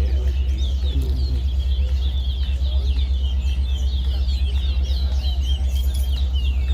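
Towa towa songbirds singing, a quick run of short high chirping notes that keeps going, over a steady low hum.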